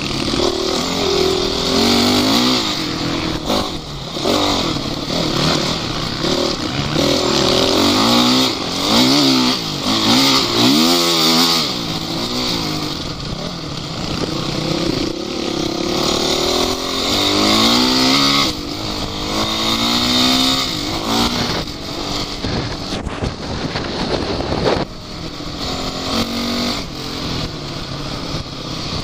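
Off-road vehicle engines revving under load, their pitch rising and falling again and again, at times more than one engine at once.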